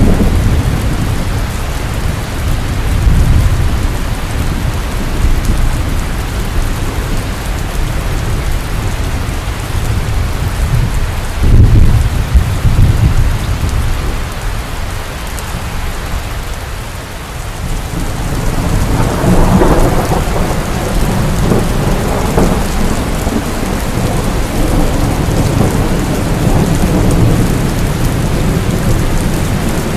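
Heavy rain falling steadily in a thunderstorm, with rumbles of thunder. A sudden, loud, low thunderclap comes about a third of the way in, and a longer roll of thunder builds from about two-thirds of the way through.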